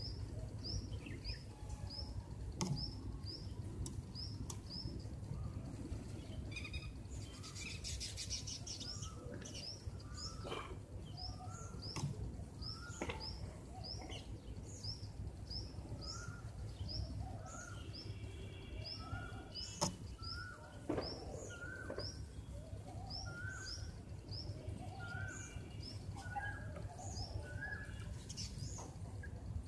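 Songbirds chirping: one repeats a short, high chirp about twice a second, and a second bird joins with lower calls from the middle on, over a steady low rumble with a few sharp clicks.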